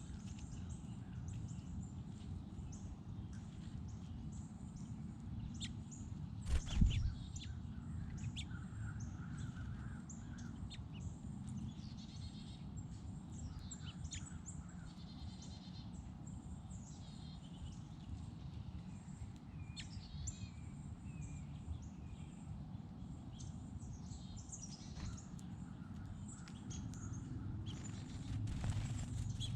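Small songbirds chirping and calling on and off over a steady low background rumble, with a single loud thump about seven seconds in.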